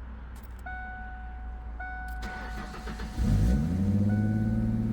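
A repeating dashboard warning chime sounds, then about three seconds in the 1995 Ford Mustang's 3.8-litre V6 cranks briefly, catches and settles into a steady idle.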